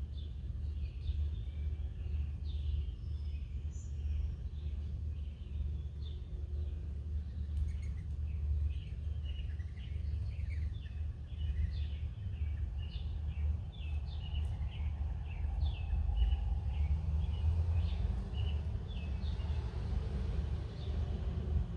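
Small wild birds chirping, many short quick chirps that get busier about a third of the way in, over a steady low outdoor rumble.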